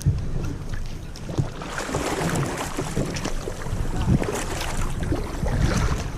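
Water splashing and sloshing, getting louder and busier from about two seconds in, over wind rumbling on the microphone.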